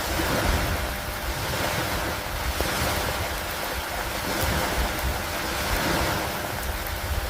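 Steady rain and wind over lake water: a continuous hiss that swells and eases every second or two, with a low rumble underneath.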